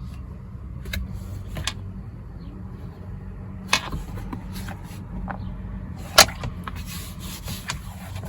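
Scattered light clicks and taps of a leather travelers notebook and its paper inserts being handled, with one sharper click about six seconds in, over a steady low hum.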